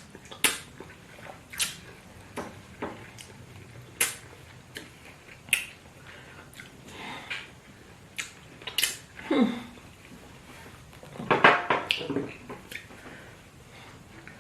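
Eating noises during a fast fufu meal: scattered short sharp clicks and smacks from mouths and dishes. A short falling sound comes about nine seconds in, and a louder cluster of noises around eleven to twelve seconds.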